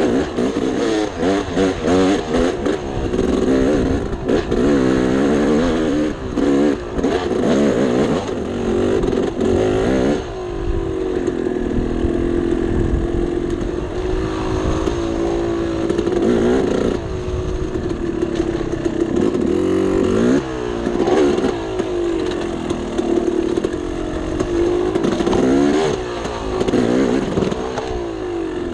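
Two-stroke dirt bike engine revving up and down on a trail ride, with many short knocks and clatter during the first ten seconds. After that it holds a steadier note, with a few short revs.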